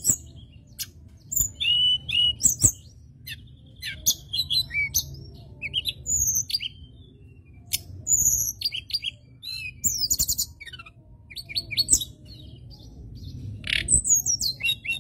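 Bird chirps and calls, many short sweeping notes in quick irregular succession, with a few sharp clicks among them over a low steady background rumble.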